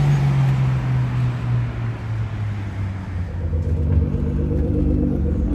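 Car engines running: one engine's note falls steadily as the vehicle slows over the first second or so, then another engine runs close by with a low, steady note from about three and a half seconds in.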